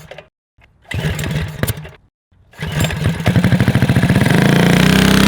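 Small single-cylinder mini-bike engine running in short edited snippets, broken twice by sudden cuts to silence. In the last couple of seconds it revs up, its firing pulses speeding up into a steady run.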